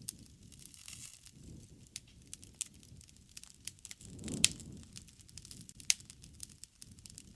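Campfire crackling: scattered sharp pops over a low rumble of burning wood. The rumble swells about four seconds in, together with the loudest pop, and another sharp pop comes near six seconds.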